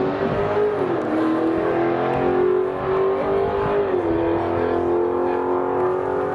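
Drag racing car under full throttle running down the strip, a loud steady engine note that drops in pitch twice, about a second in and about four seconds in.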